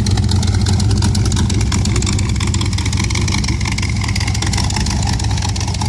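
A T-bucket hot rod's 350 cubic-inch V8 idling steadily, with a fast, continuous rattle of a loose plate underneath that the engine's vibration shakes.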